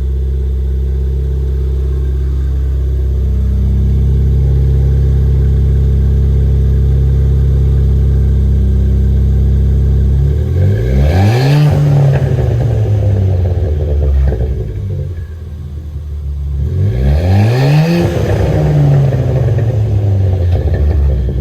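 2016 Ford Fiesta ST's 1.6-litre turbocharged four-cylinder, cold after its first start, idling steadily through a newly fitted MBRP aftermarket exhaust, then revved twice, about ten seconds in and again near the end, each rev rising and falling back to idle.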